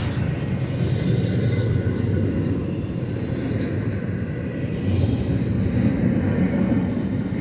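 Double-stack intermodal container cars of a freight train rolling past: a steady rumble of steel wheels on the rails.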